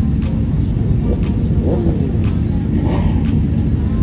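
A car's engine rumbling steadily and loudly at low pitch, with a few faint, short higher sounds around the middle.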